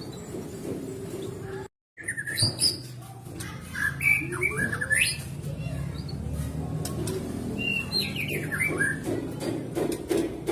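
White-rumped shama (murai batu) singing in two phrases of quick, gliding whistles and chatter, over a steady low background. The sound cuts out for a moment just before the first phrase.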